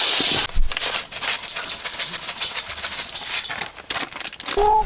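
River snail shells clattering and clicking against each other as they are stirred and rubbed in a basin while being cleaned.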